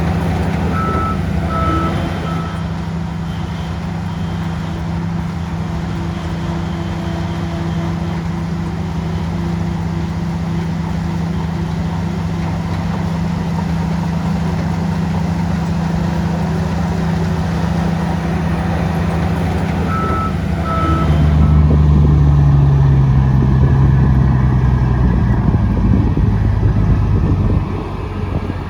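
Heavy diesel engine of a Shantui bulldozer running steadily, with a reversing alarm giving a few short beeps near the start and again about twenty seconds in. After the second beeps the engine gets louder and its note drops, holding until shortly before the end.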